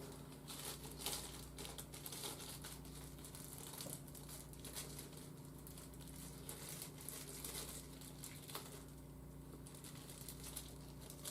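Plastic toy packaging crinkling and rustling in the hands, with many small irregular clicks and crackles.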